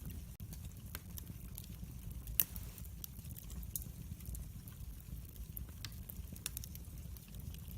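Wood fire burning in a fireplace: a steady low rumble of flames with scattered sharp crackles and pops, one louder pop about two and a half seconds in.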